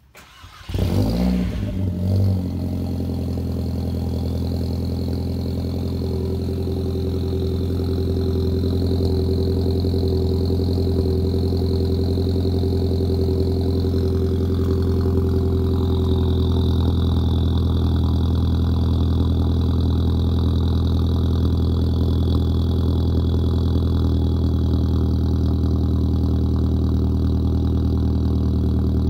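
Volkswagen Jetta Mk4's 1.8-litre turbocharged four-cylinder (AWP) engine starting up about a second in. It flares briefly, then settles into a steady idle, heard at the dual exhaust tips.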